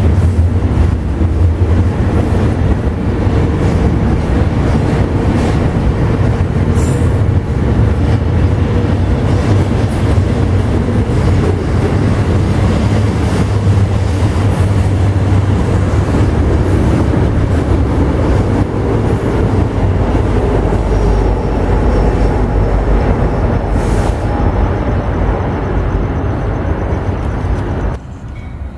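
Train passing close by: a steady, loud noise of wheels rolling on the rails that drops off sharply near the end.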